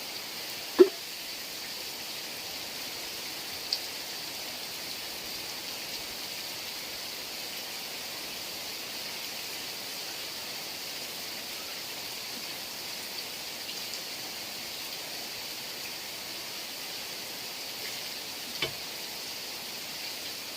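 Steady heavy rain hiss, with a few short sharp taps standing out, the loudest about a second in.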